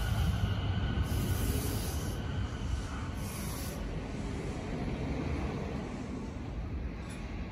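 JR 209-series electric commuter train slowing to a stop at a platform. The wheel and running rumble eases off steadily, and a thin whine from the motors and brakes fades out in the first second or two.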